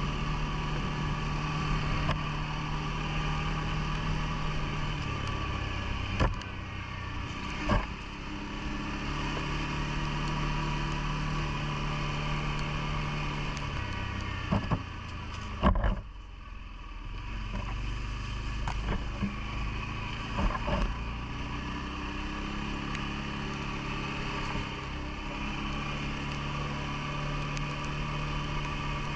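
CFMOTO ATV engine running, its pitch stepping up and down with the throttle, with a few sharp knocks along the way.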